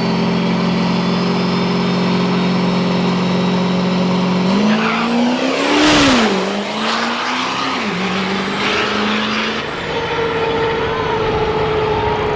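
Diesel drag-racing truck engines running, with one revved up and down about halfway through, loudest in the middle, before settling back to a steady run.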